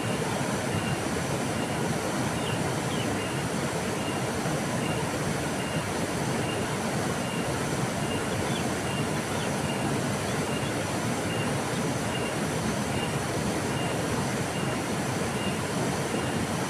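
Steady rush of a flowing river, even and unbroken, with a faint high-pitched chirp repeating about twice a second.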